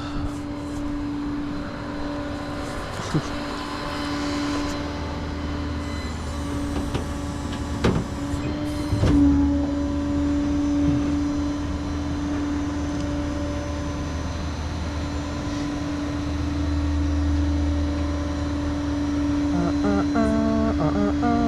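Tow truck driving under way, heard from inside the cab: a steady engine and drivetrain drone with a low road rumble, and a few sharp knocks or clunks along the way.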